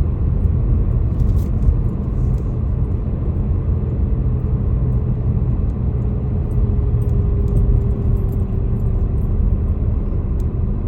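Car engine and road noise heard from inside the cabin while driving slowly: a steady low rumble with a faint engine hum that drops slightly in pitch in the second half.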